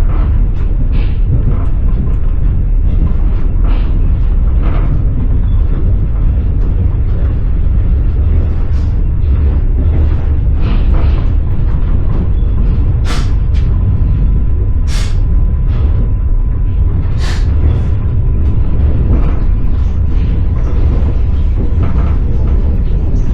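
Inside a moving passenger train carriage: a steady low rumble with irregular clacks of the wheels over rail joints, a few sharper clacks near the middle. A faint steady whine sets in about halfway through.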